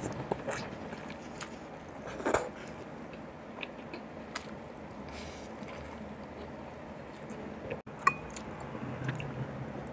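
Close-miked wet chewing and mouth sounds from eating beef shank meat and rice by hand, with scattered smacks and clicks. There is a louder smack a little over two seconds in and a sharp click near the end.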